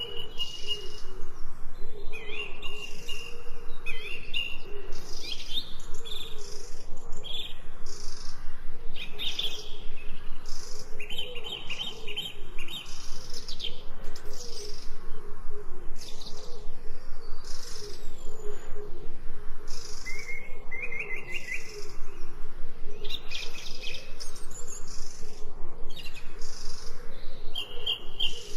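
Several songbirds chirping and singing, with many short high calls and trills overlapping one another, over a lower, continuous wavering call.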